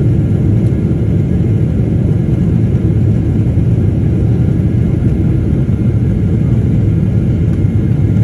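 Steady, low rumble of a moving vehicle, with no distinct events.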